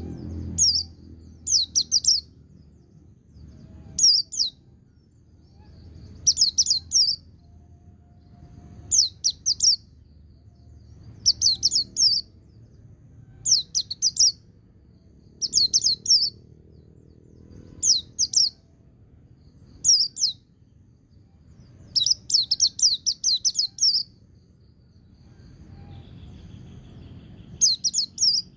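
White-eye (pleci) singing its trilling 'ngecir' song: short runs of fast, high chirping notes repeated about every two seconds, with one longer run of about two seconds near the end, then a brief pause before a last run.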